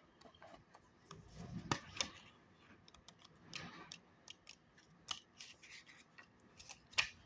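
Tarot cards being handled: soft sliding and rubbing of card stock with scattered light clicks, and a brief low rush about a second and a half in.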